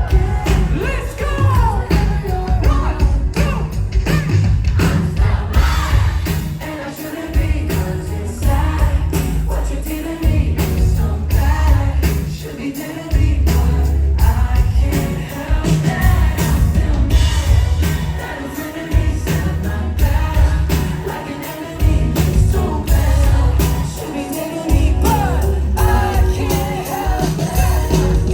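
Live band music with a lead vocal singing over heavy, pulsing bass and drums.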